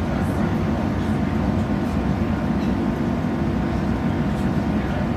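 Steady rumble inside the passenger cabin of a diesel train running along the line, with wheel and engine noise and a few faint light clicks.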